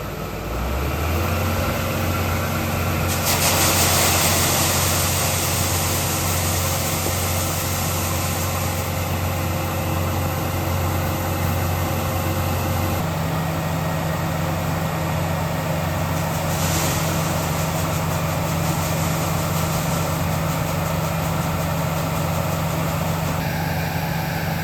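John Deere 6600 combine's engine running steadily after picking up speed about a second in, with a rushing hiss for several seconds early on. The engine note shifts about halfway through.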